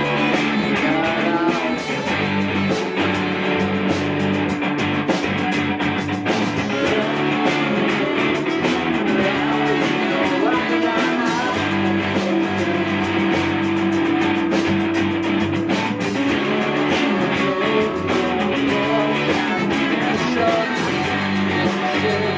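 Live rock band playing a guitar-led passage over steady bass notes.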